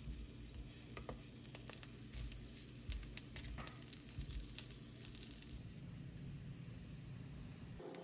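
Rice-paper-wrapped sausage and rice-cake skewers frying in oil in a pan: a steady sizzle with scattered crackles and pops. The sound changes abruptly just before the end.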